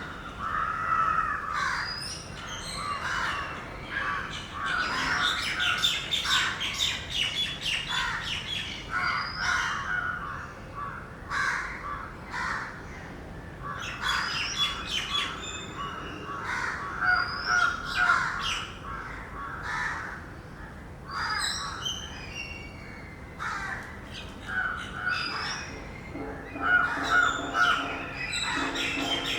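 Several birds calling over one another: repeated mid-pitched calls mixed with short, high chirps.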